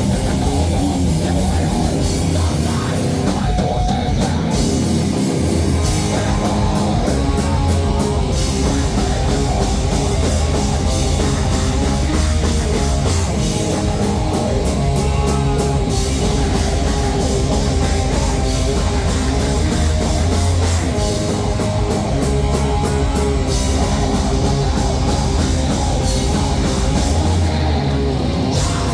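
Heavy metal band playing loudly live: electric guitars, bass and drum kit, with stretches of fast cymbal and drum hits.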